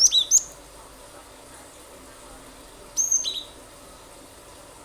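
Cinereous tit (glatik batu) calling in two short bursts of sharp, high, falling notes, about three seconds apart, over a steady hiss.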